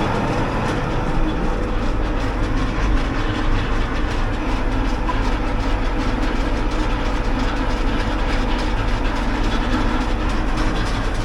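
Hydraulically driven grain auger running, a steady rapid rattling clatter over a constant low machine hum.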